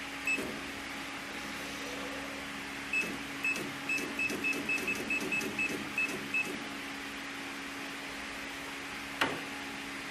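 Control panel of a programmable pattern sewing machine beeping, about a dozen short beeps at two to three a second, each with a soft mechanical knock as the machine responds, over a steady electrical hum. One sharp click comes a little after the midpoint.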